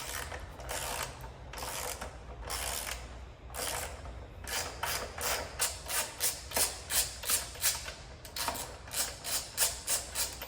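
Ratchet wrench with a socket clicking as it spins a motorcycle axle nut loose. Short ratcheting strokes, slow at first, then about three a second from about four seconds in, with a brief pause near eight seconds.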